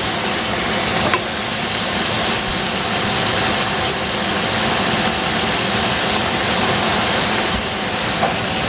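Vegetables stir-frying in oil in a stainless steel pot: a steady, even sizzling hiss with a faint low hum underneath.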